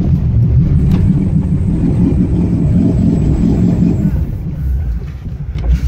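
Off-road vehicle's engine running hard under load, heard from inside the cab as a loud low rumble that eases off about four seconds in. The vehicle is straining without making headway.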